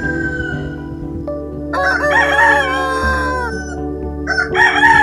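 Two loud animal calls, each with a strained, many-layered pitch: one about two seconds in lasting about a second and a half, and another starting near the end.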